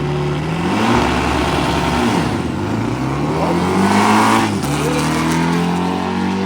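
Volkswagen drag car engine being revved in blips while staging: the pitch climbs and drops back twice, then holds at a raised rev near the end.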